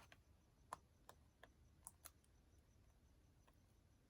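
Near silence with a few faint, short clicks in the first couple of seconds: a fingernail picking at a paper sticker to lift it off its backing.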